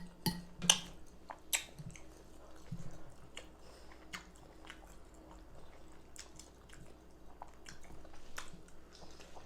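Close-miked chewing of a mouthful of baked chicken and rice in gravy: moist mouth sounds and lip smacks. There are a few sharp wet clicks in the first two seconds, then softer scattered ticks.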